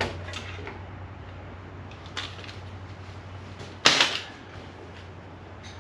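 Handling of removed bolts and parts during fender removal: a light click at the start, a faint tick about two seconds in, and one sharp knock about four seconds in, over a steady low hum.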